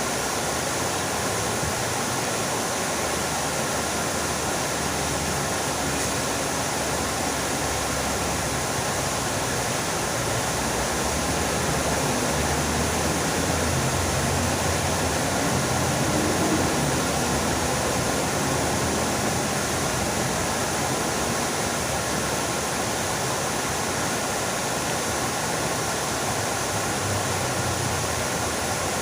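Fountain water splashing steadily, a continuous rushing hiss with a slight swell in the middle.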